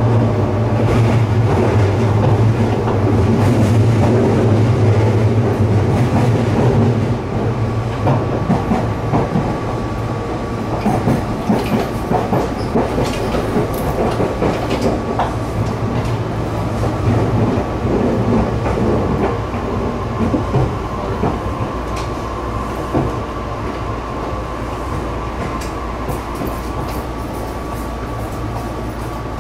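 Interior sound of a moving electric commuter train on the Tobu Noda Line: a strong low running hum that eases about seven seconds in, with wheels clicking over rail joints and a faint steady whine throughout.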